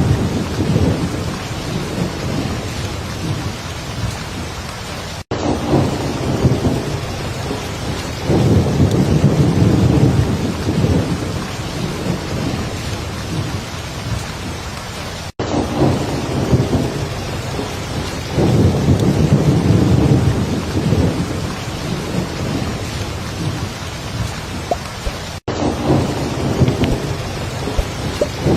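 Heavy rain falling steadily, with low rolling thunder swelling and fading every few seconds. The sound cuts out for an instant three times, about ten seconds apart.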